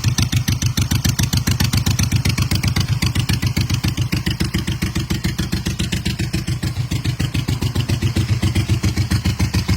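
Motorcycle engine idling steadily, with an even, rapid exhaust pulse.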